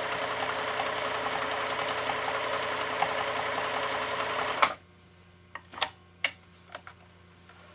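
Pfaff 1229 sewing machine running steadily, sewing a full-width zigzag stitch, stopping abruptly about four and a half seconds in. A few light clicks follow.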